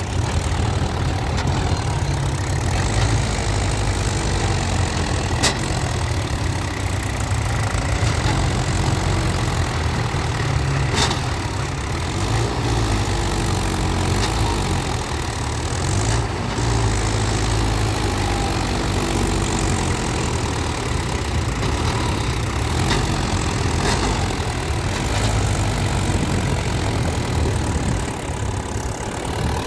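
Mahindra Yuvo tractor's diesel engine running steadily, its engine speed rising and falling now and then, with a few sharp clicks.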